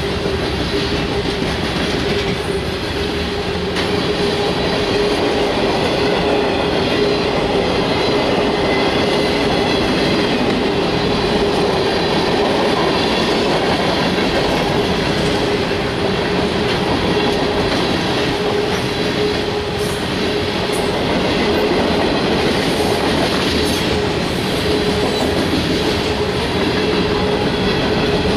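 Freight train cars rolling past at trackside: a loud, steady rumble and clatter of steel wheels on the rails, with a steady whining tone above it.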